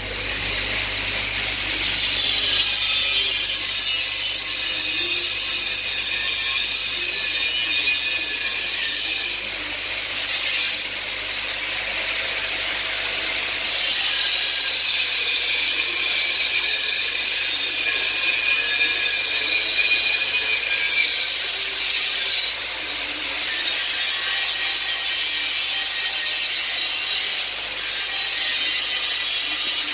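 TIG welding arc on 9CrMo chrome-moly pipe, striking at the start and then running as a steady high hiss and crackle that dips briefly three times.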